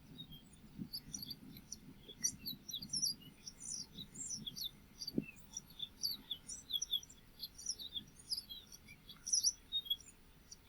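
Yellow-fronted canary singing: a fast, continuous run of high chirps and short trills.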